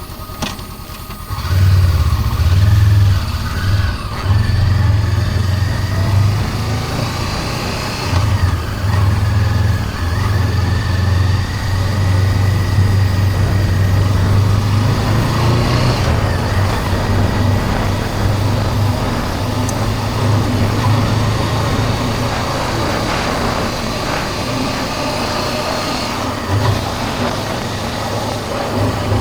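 Honda CB400X's parallel-twin engine running while the motorcycle is ridden, mixed with heavy wind rumble on the chest-mounted microphone. The sound gets much louder about a second and a half in and stays loud.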